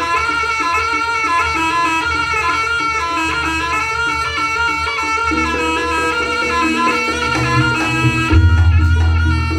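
Jaranan music: a slompret (Javanese reed shawm) playing a wavering, ornamented melody over a low drum and gong accompaniment, the low beats growing louder about eight seconds in.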